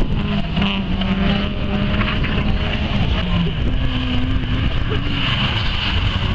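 Competition car engine running at high revs as the car is driven hard through a cone course, its pitch stepping up and down with throttle and gear changes.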